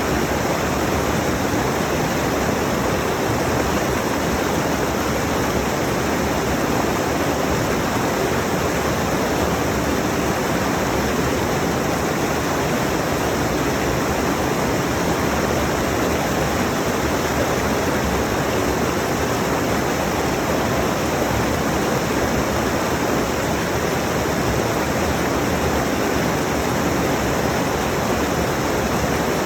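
A rushing mountain stream: water pouring over rocks in a steady, even rush that does not change.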